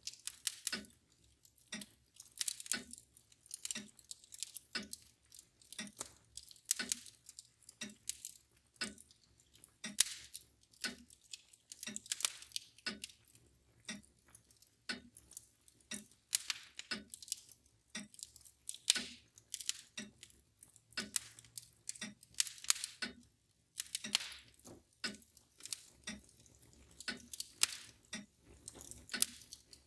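Wood fire crackling with irregular sharp pops and snaps, over the steady, even ticking of a mantel clock.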